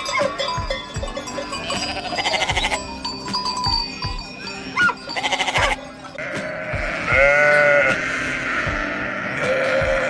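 Sheep bleating: one drawn-out, wavering bleat about seven seconds in.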